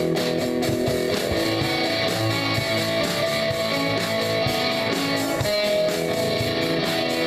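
A live band playing: electric guitars strummed and held over bass, with a steady beat of sharp strokes.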